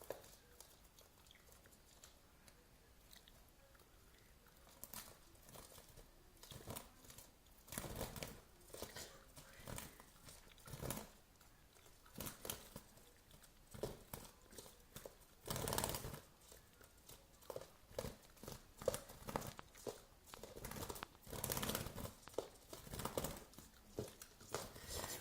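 Scuffling: irregular scratching, rustling and crunching noises in short bursts, starting about five seconds in after a stretch of near silence.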